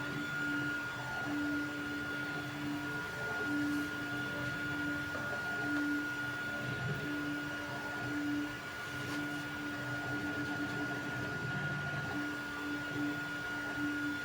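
Creality Ender 3 V3 3D printer running a print: its stepper motors hum at one pitch in short runs that start and stop as the print head moves, over a constant high whine.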